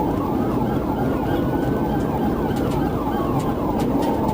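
Police car siren wailing, its pitch rising slowly for about two seconds and then falling, with a faster yelping siren sweeping alongside, over steady engine and road noise.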